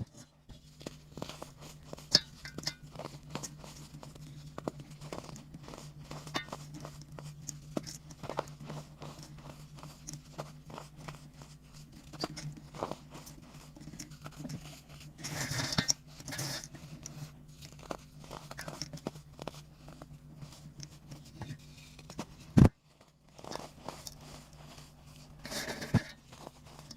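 Chunks of dry baking soda crumbling and being crushed: many small dry crackles and crunches, with two denser, louder crunching spells, one about halfway through and one near the end. A single sharp knock comes a little before the last spell, over a steady low hum.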